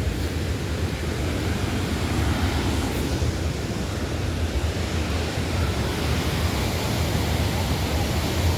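Steady rushing roar of a large waterfall, with no pauses or distinct events.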